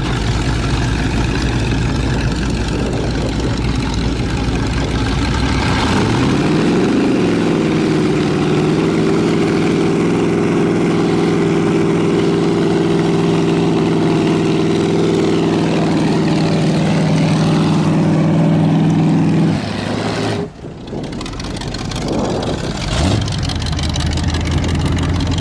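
Chevy 350 and 454 V8 mud-truck engines: revs climb about six seconds in and are held steady and high for over ten seconds, pulling against each other in a tug-of-war. Near the end the revs fall away abruptly and an engine settles back to a lower, steady run.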